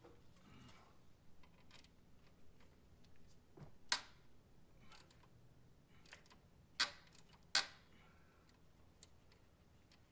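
Scattered light metal clicks and clinks of hand tools, a socket and ratchet, being fitted to a fastener in the engine bay, with three sharper, louder clicks about four seconds in, near seven seconds and again just after.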